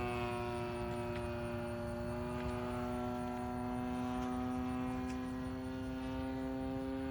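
Gas engine of a 20cc RC Laser model airplane in flight, a steady propeller drone whose pitch rises slowly.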